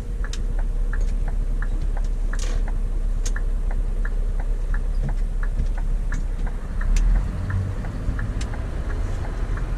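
Scania V8 truck engine running with a steady low rumble, heard from the cab, with a regular light ticking about three to four times a second throughout.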